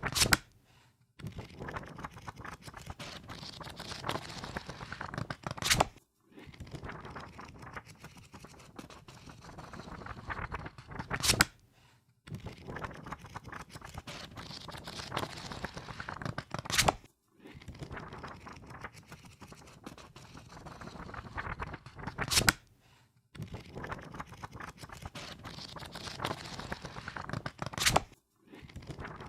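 Pages of a book flipped through rapidly with the thumb, over and over: each pass is a fluttering rush of paper lasting about four seconds that ends in a sharp snap, repeating about every five and a half seconds.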